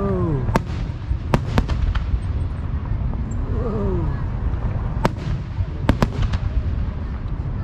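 Fireworks display at close range: sharp cracks of bursting shells, three in the first two seconds and three more about five to six seconds in, over a continuous low rumble of booms.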